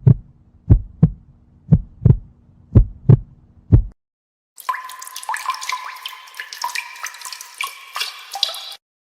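Heartbeat sound effect: four or five double low thumps, lub-dub, about one a second over a faint hum, stopping about four seconds in. After a short silence comes a few seconds of running, dripping water with small plinking drops.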